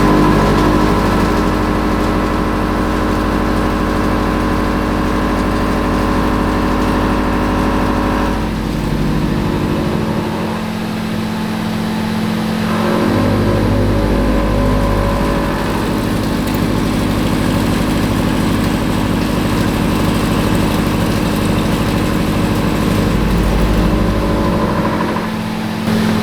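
CNC mill face milling cold rolled steel with a 2.5-inch face mill carrying four 12 mm round carbide inserts: a loud, steady whine and rumble of the cut. The tone shifts about 8 seconds in and again around 13 seconds, as the cutter moves between passes.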